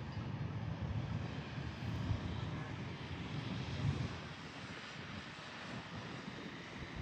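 Steady rumble and rushing noise of a vehicle on the move, easing a little after about four seconds.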